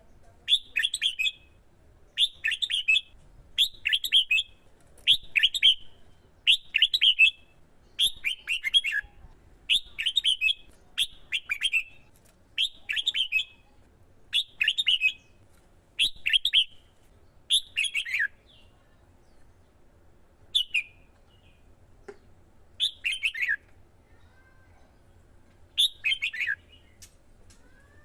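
Red-whiskered bulbul singing a short warbled phrase over and over, about one every second and a half, with a few longer gaps in the second half.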